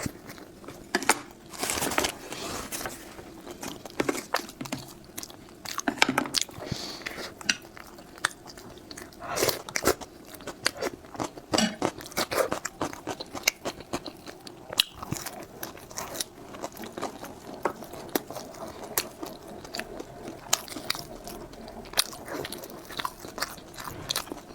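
Close-miked eating: a person biting and chewing food, with many irregular crisp crunches and mouth smacks.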